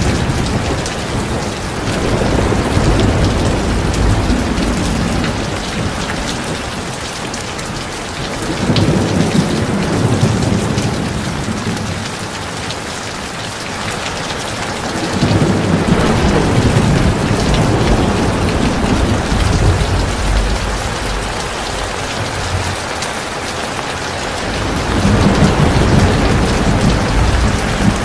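Heavy rain falling steadily, a dense continuous hiss of drops, with a low rolling rumble swelling up and fading four times.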